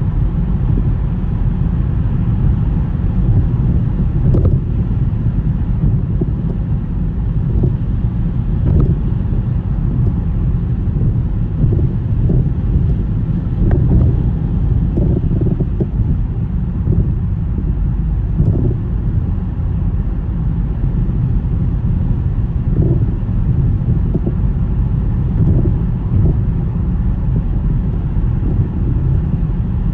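A car driving on a snowy road: a steady low rumble of tyres, engine and wind, with faint short knocks every few seconds.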